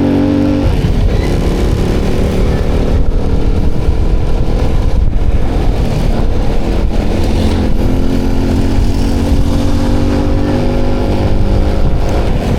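Motorcycle engine running on the move, under a heavy low rumble of wind on the camera's microphone. The engine note drops away about a second in, then comes back in the second half, climbing slowly as the bike speeds up.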